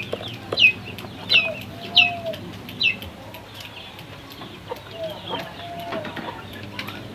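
Birds calling: sharp, high downward-sweeping chirps about every two-thirds of a second for the first three seconds, with low drawn-out calls between them and softer calls later on.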